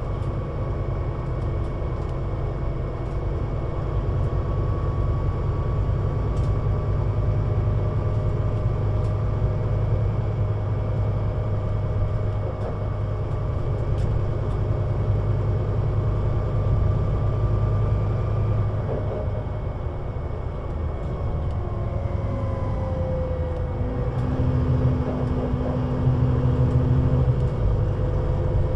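Scania CN320UA 6x2/2 city bus running under way, a steady engine drone with whining tones. About two-thirds of the way in, a whine falls in pitch, then the engine gets louder and a new steady tone joins it for a few seconds.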